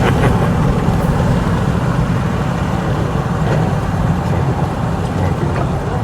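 Motorboat engine running steadily with a low drone, slowly getting quieter.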